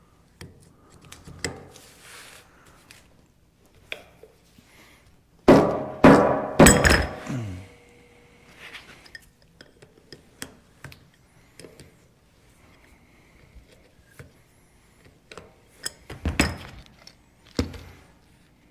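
Metal tools and injection pump parts clinking and knocking against each other and the workbench during disassembly. The loudest cluster of knocks, with brief ringing, comes about six seconds in, and another a little before the end.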